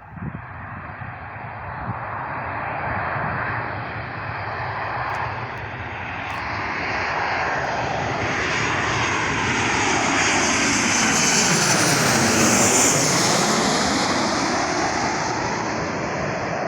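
Airplane flying low overhead: its engine noise builds steadily, peaks about twelve seconds in with a sweeping, phasing whoosh as it passes above, then begins to ease off.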